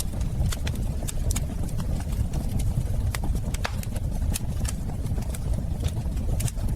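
Wood fire in a fireplace crackling, with irregular sharp pops and snaps several times a second over a low steady rumble of flame.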